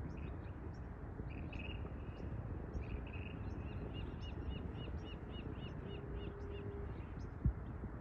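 Birds calling over a steady low background of outdoor noise. Midway, one bird gives a run of short rising-and-falling notes, about three a second, with scattered fainter, higher chirps around it.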